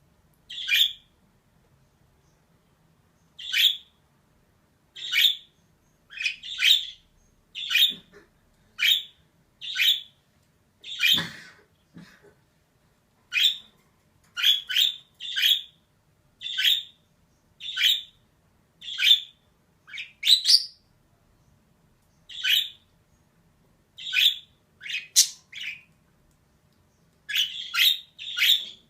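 Female budgerigar giving short, sharp chirping calls one at a time, about one a second with brief silent gaps; one call about eleven seconds in comes with a thump.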